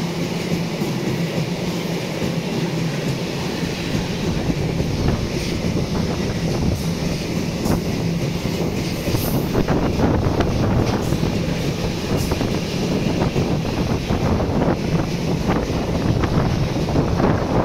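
Freight train of loaded double-deck car-transporter wagons rolling past close by: a continuous rumble of wheels on rail with irregular clicks and clacks. A low steady hum fades out about halfway through.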